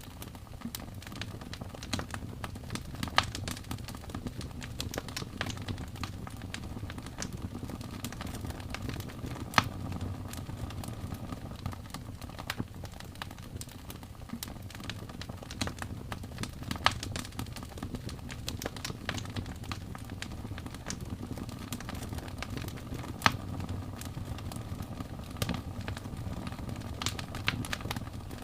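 Wood fire crackling in a fireplace: a dense run of small snaps with a few louder pops, over a low steady rumble.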